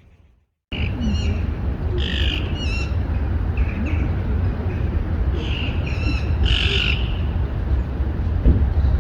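Birds calling again and again in short, harsh notes over a steady low rumble. The sound cuts in just under a second in, after a moment of silence.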